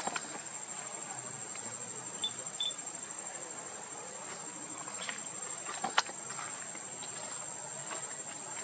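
Insects, likely crickets, trilling steadily at a high pitch, with a few sharp clicks or taps; the loudest comes about six seconds in.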